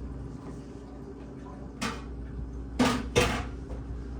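Three knocks: one about two seconds in, then two louder ones close together about a second later, over a steady low hum.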